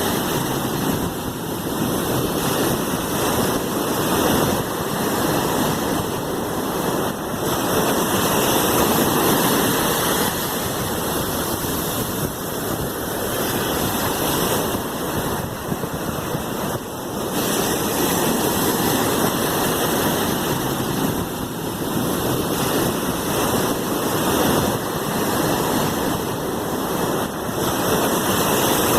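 Sea waves: a continuous rushing of water that swells and eases every several seconds.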